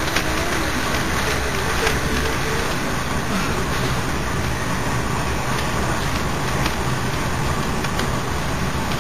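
Moving passenger train heard from inside the carriage: a steady running rumble and rush of wheels on rails, with a few faint clicks.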